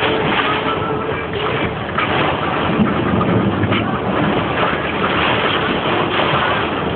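Heavy rain and wind of a severe thunderstorm, a steady loud rush without a break.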